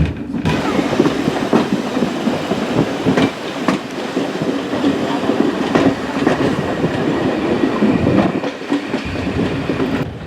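Railway carriage running along the track, with a steady rumble and the wheels clicking over rail joints.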